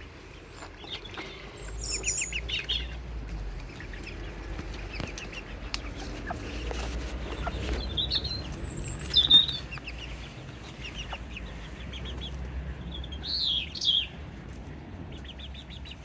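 Small garden birds, a European robin among them, chirping and calling in short high notes and brief trills scattered through. The loudest notes come about nine seconds in and again near fourteen seconds.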